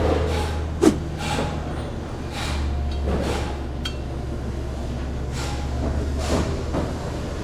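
Engine parts being handled on a workbench: short scrapes and rustles, with one sharp click about a second in, over a steady low hum.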